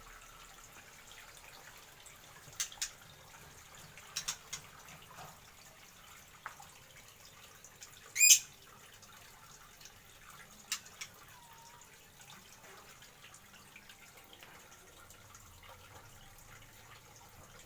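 Aviary birds giving a few short, sharp chirps spaced several seconds apart, with one louder, harsh call about eight seconds in.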